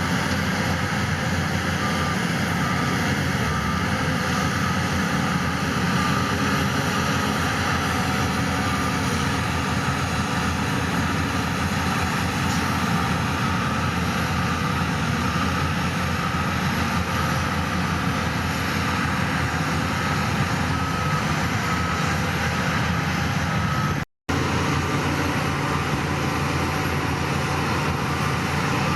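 A heavy diesel machine runs steadily under load while a reversing alarm beeps evenly over it. The sound cuts out for a moment near the end.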